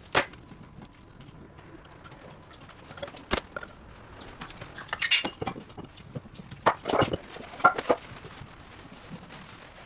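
Irregular knocks and clatters, some in quick clusters, the loudest around the middle and near the end.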